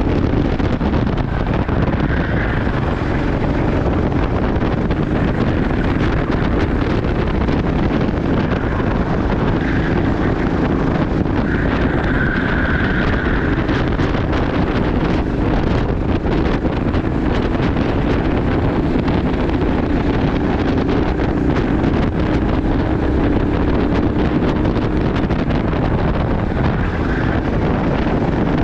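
Racing kart engine running hard on track, heard from onboard with heavy wind buffeting on the microphone. The engine note rises and falls slightly as the kart laps.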